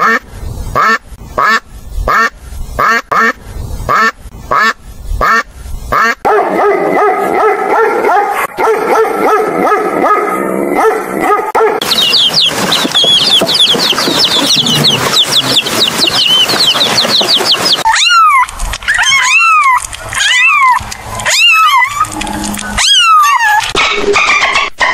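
A run of animal calls: a Canada goose honking about ten times in quick succession, then a few seconds of denser calling, then a brood of baby quail chicks peeping rapidly and high. Near the end come about six rising-then-falling dolphin whistles.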